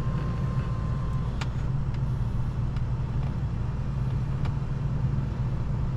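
A car engine idling steadily, with a couple of faint ticks.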